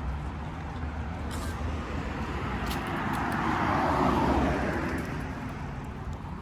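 A car driving past on a nearby road: its tyre and engine noise swells to its loudest about four seconds in, drops in pitch as it goes by, and fades.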